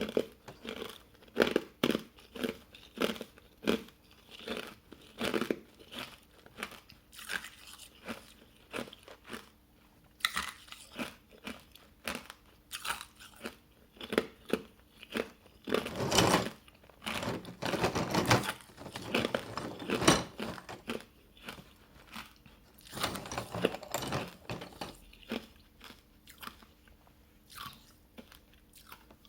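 Hard ice coated in matcha powder being bitten and chewed close to the microphone: a run of loud, sharp crunches, with denser, louder bouts of crunching in the middle and thinning toward the end.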